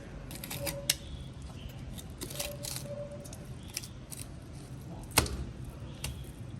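Fish-preparation handling sounds: a run of short scrapes and clicks of metal tools on the fish and work surface, with a sharp knock about a second in and a louder one about five seconds in. A faint steady tone comes and goes.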